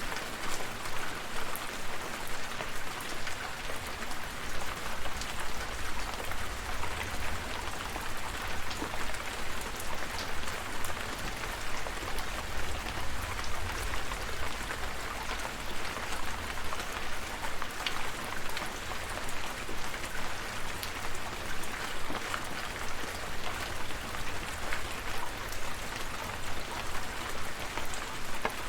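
Steady rain falling, a dense hiss with many small drops ticking close by, over a low rumble underneath.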